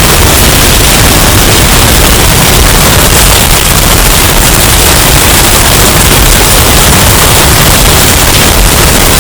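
Hurricane wind sound effect, bass-boosted and distorted into a steady, very loud roar of noise, heaviest in the deep bass.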